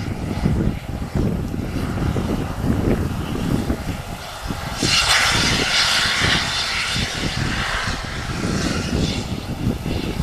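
Airbus A319 jet engines running during pushback over an uneven low rumble. About five seconds in, a loud hiss comes in sharply and eases off over the next few seconds.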